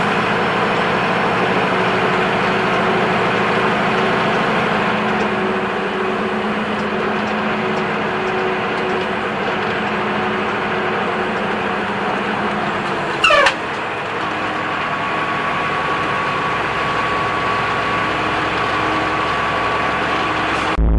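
A motor vehicle running: a steady drone of engine and road noise. About 13 seconds in, a brief loud sound slides quickly down in pitch, followed by a faint steady tone.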